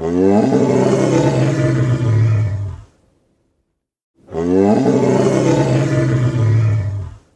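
A large animal's deep roaring call, given twice, each call lasting about three seconds with a short silence between.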